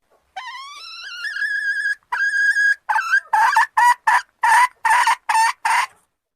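Junglefowl hen calling to attract a male. It opens with a drawn-out note that rises and then holds, gives a second shorter held note, and ends with a run of about eight short, clipped notes at roughly three a second.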